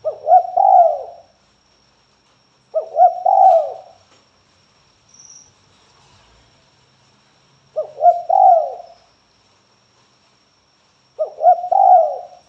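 Spotted dove cooing: four phrases, each about a second long, spaced a few seconds apart. This is the dove's calling song, used as a lure to get other doves to answer. A faint, steady high-pitched whine runs underneath.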